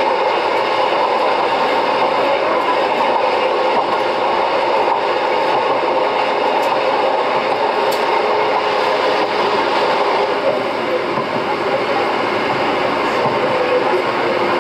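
Wakayama Electric Railway 'Omocha densha' (toy train) electric train running along the line at a steady pace: a continuous, even rumble of wheels on rail with a couple of faint clicks about seven and eight seconds in.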